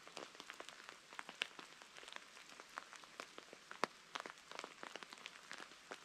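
Light rain: scattered drops ticking irregularly, with a couple of sharper drops about a second and a half and four seconds in.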